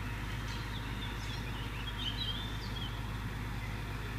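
A steady low engine rumble, with a bird chirping several times over it in the first three seconds.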